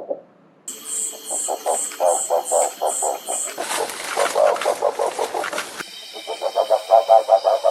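Rusty-barred owl calling: rapid series of deep, guttural notes, about five a second, in several short recordings played one after another.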